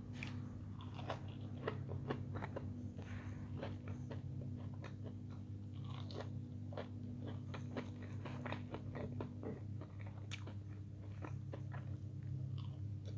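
A person biting and chewing fried, breaded chicken nuggets close to the microphone: a steady run of short, sharp clicks of mouth and food, over a steady low hum.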